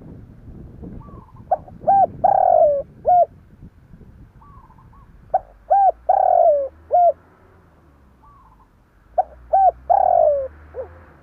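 Spotted dove singing its cooing song three times, about four seconds apart. Each phrase is a couple of short coos, then a longer falling coo and a short closing note, with softer short calls in between.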